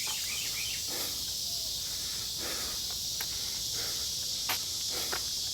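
Steady high-pitched chorus of insects, with a few soft scuffs now and then.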